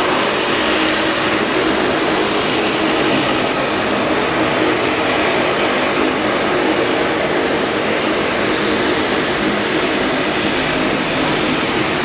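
Steady noise of a Boeing 787-8 airliner heard from inside the cabin: engine and airflow noise running evenly with a faint low hum, no change in level.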